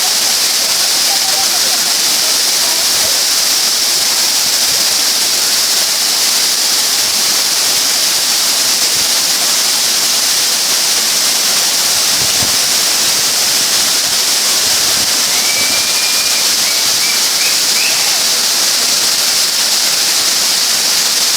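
Waterfall pouring steadily: a loud, even rush of falling water with no let-up.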